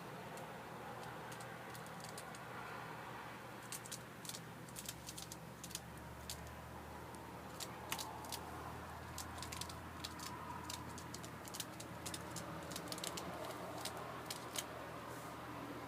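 Light, irregular clicks and ticks, several close together at times, from a canary moving about and tapping on a hard surface, over faint room noise. The clicks begin about four seconds in.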